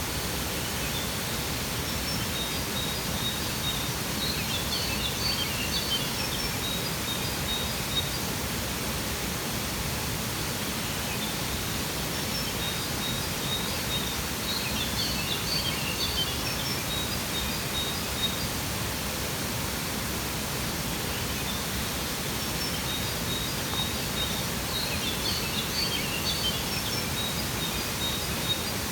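Steady rushing of a waterfall, with small birds chirping and trilling over it in three bursts about ten seconds apart.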